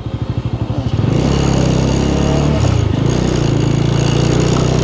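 Motorcycle engine running while riding, its separate firing pulses audible in the first second before it picks up and holds a steady pitch, with a brief shift in pitch about two and a half seconds in.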